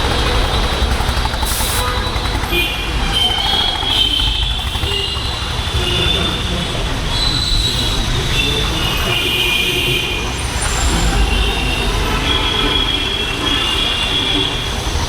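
Honda H'Ness CB350's air-cooled single-cylinder engine running under way, its exhaust note mixed with wind rumble on the helmet-mounted microphone. High-pitched squealing tones from surrounding traffic come and go several times.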